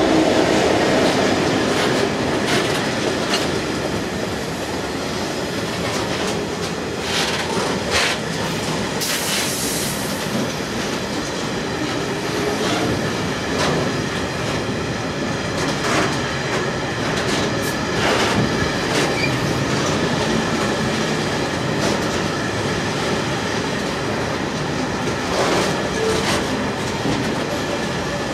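A long rake of open engineering wagons rolling past behind a GBRF Class 66 diesel locomotive, whose two-stroke EMD engine fades away at the start. Wheels clatter irregularly over rail joints, with a brief high squeal about nine seconds in.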